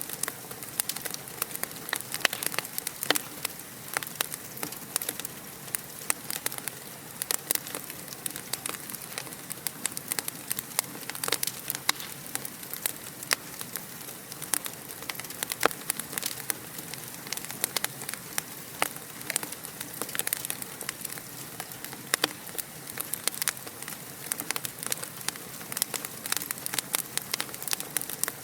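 Fireplace fire crackling steadily: a dense run of small sharp pops and snaps over a soft continuous hiss.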